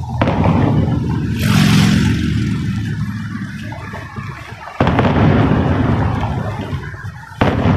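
Fireworks exploding: a series of booms, each followed by a low rumble that fades away, with sharp bangs about five seconds in and again near the end.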